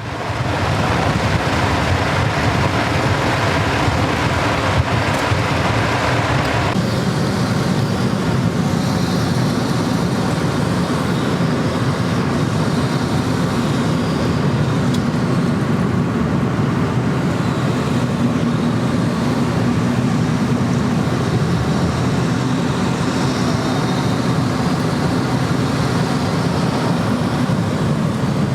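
Steady, continuous rumbling noise, with a sudden change in tone about seven seconds in.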